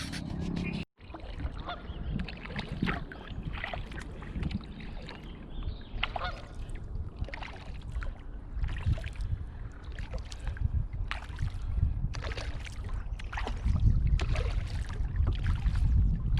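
Repeated honking bird calls, coming irregularly over a low rumble near the water, after a brief cut to silence about a second in.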